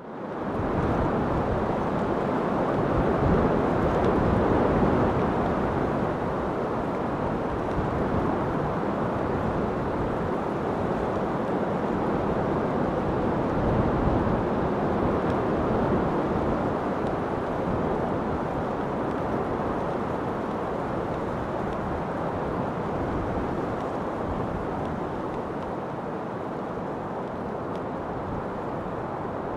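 Steady wind ambience, a deep, even rushing with slow swells and no gusts standing out, fading up from silence at the start.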